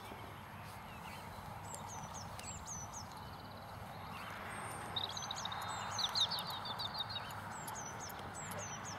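Small birds singing: short high down-slurred chirps repeated all through, with a fast trill of repeated notes about five seconds in, over a steady background hiss.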